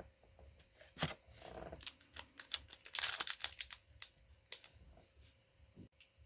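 Trading cards being handled and flicked through: a series of light clicks and taps, with a brief rustling burst about three seconds in.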